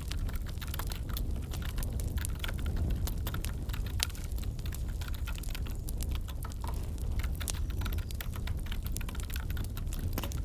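Wood fire crackling over a steady low rumble, mixed with the clicking of keyboard typing.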